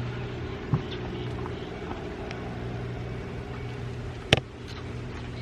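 Car engine idling, a steady low hum heard inside the cabin, with a sharp click about four seconds in.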